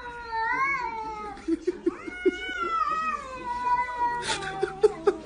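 A cat yowling in two long, wavering calls, the second one longer.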